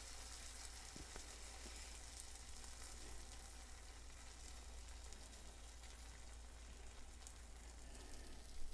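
Cheese frying without oil in a titanium-and-ceramic nonstick frying pan: a faint, steady sizzle, with a short knock near the end.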